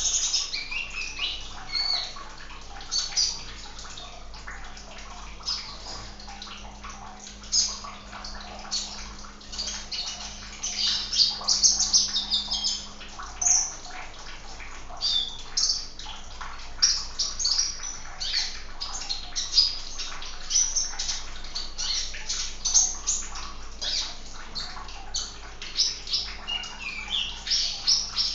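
Sunbird chirping over and over in short, high, rapid calls, over the steady noise of running water and a low hum.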